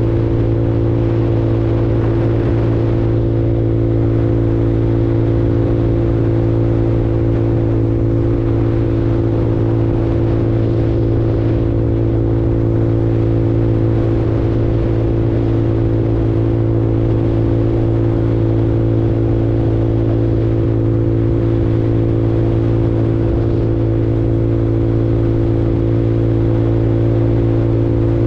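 A 150cc Super Hornet automatic motorcycle's engine running steadily under way, holding an even, unchanging note.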